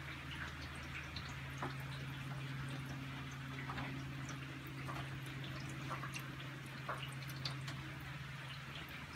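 Rain dripping and pattering in scattered drops, over a steady low electrical-sounding hum that stops near the end.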